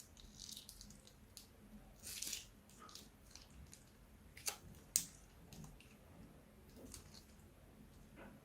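Slime being handled: faint wet squishing with scattered small clicks and pops, a short sticky burst about two seconds in, and two sharper clicks near the middle.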